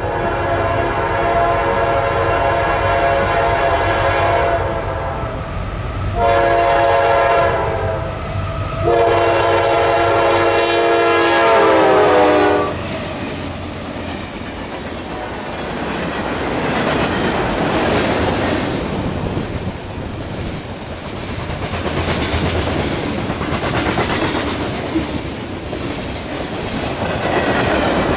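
Locomotive air horn sounding three blasts, long, short and long, with the chord dropping in pitch at the end of the last one as the locomotive passes. After that, the freight cars rumble past with a steady clickety-clack of wheels over rail joints.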